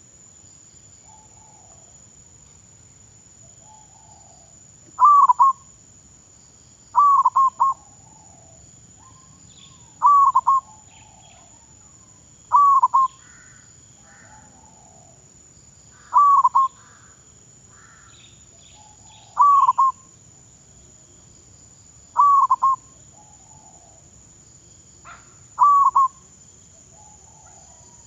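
Zebra dove (perkutut) cooing: a short, loud phrase of quick coo notes repeated every two to three seconds, nine times, each followed by a few softer, lower coos. Faint chirps of other birds sound in between.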